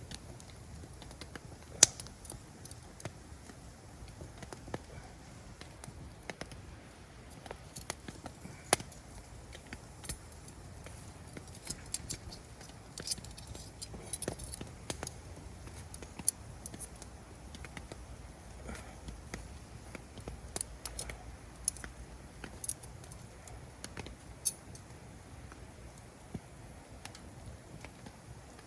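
Wood campfire crackling: irregular sharp pops and snaps, the loudest about two seconds in, over a low steady rumble.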